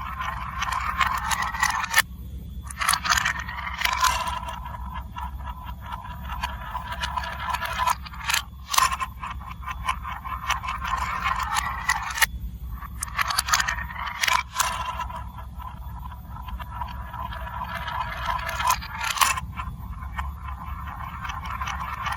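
Marbles rolling along a plastic building-block marble run track: a continuous rolling rattle broken by sharp clicks as they drop and knock against the pieces. The rolling cuts out briefly a few times.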